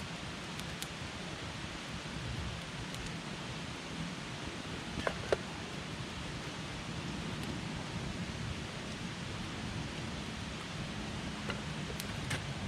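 Wood campfire burning: a steady low rushing hiss with sparse sharp crackles, including a double pop about five seconds in and a few more near the end.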